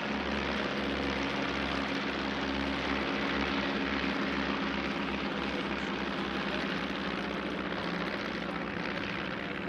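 Stampe SV.4 biplanes of a formation team flying past, their piston engines and propellers giving a steady drone.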